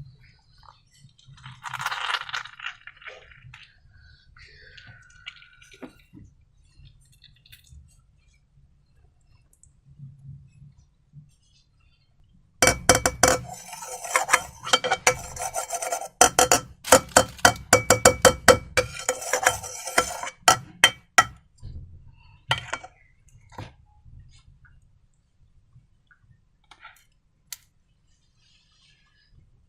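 A rapid run of clinks and taps of hard objects against a ringing dish or glass, lasting about eight seconds in the middle, with a few scattered clicks before and after.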